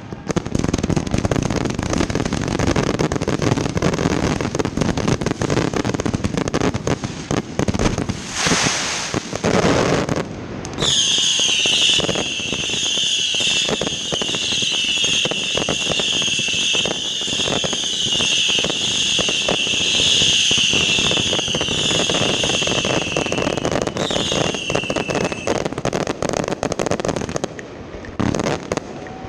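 Consumer 1.4G fireworks finale barrage: a dense, continuous run of bangs and crackling. From about eleven seconds in until near the end, a shrill, high whistling runs over it before dying away.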